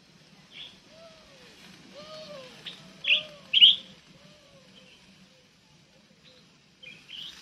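Birds chirping, with two sharp chirps loudest about three seconds in and a few more near the end. Beneath them a lower call, each note rising and falling, repeats about once a second.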